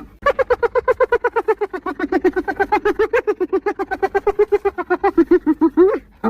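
Spotted hyena giggling: a long fast run of high, yelping notes, about nine a second, that slowly sink in pitch and break off with a short rising note near the end.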